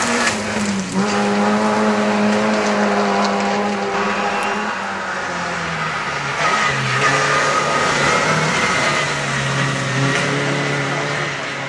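MG ZR rally car's engine running hard on a special stage. Its pitch dips about a second in and steps down a few times around the middle, over a steady hiss of tyre and road noise.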